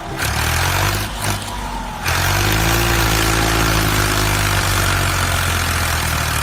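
A vehicle engine running steadily at a low, even pitch. It breaks off briefly twice early on, then comes back louder and steady from about two seconds in.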